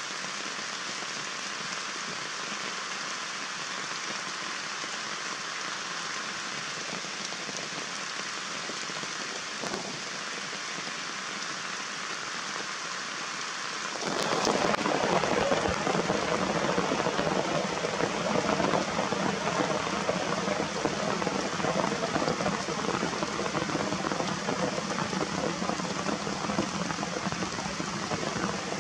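Steady rain falling as an even hiss. About halfway through it becomes louder and fuller, like heavier rain coming down.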